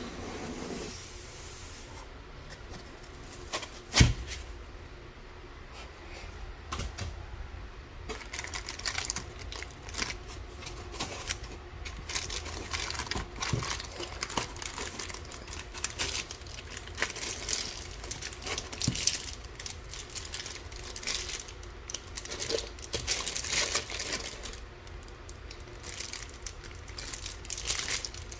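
Packaging being handled: plastic and wrapping crinkling and rustling, with scattered small clicks and one sharp knock about four seconds in.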